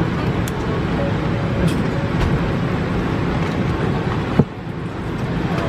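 Steady mechanical rumble and hiss of a running vehicle or machinery. One sharp knock comes about four and a half seconds in, after which the noise is briefly a little quieter.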